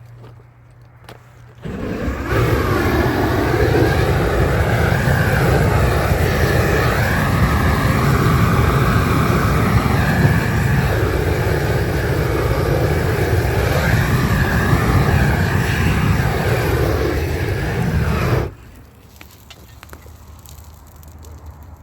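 Gas blowtorch burning with a steady, loud roar, the kind used to heat and melt bitumen waterproofing membrane onto a roof. It lights about two seconds in and cuts off suddenly near the end.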